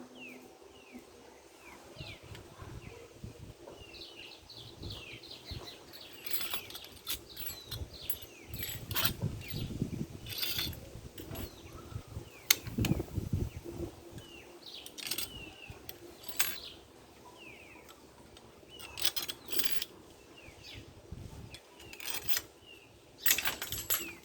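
Washing machine motor parts clicking and knocking as they are handled and fitted together, in irregular clusters with a few heavier thuds midway. Small birds chirp over it, with short falling notes again and again.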